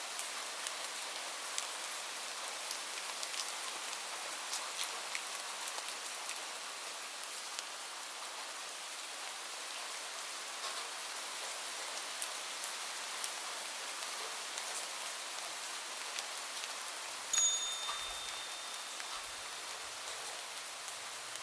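Steady rain: an even hiss with scattered drop ticks. About seventeen seconds in, a single high chime sounds and rings for a few seconds before fading.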